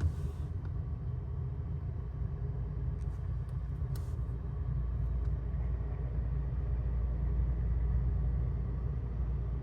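Truck engine running, heard from inside the cab: a steady low rumble, with a few faint clicks about three to four seconds in.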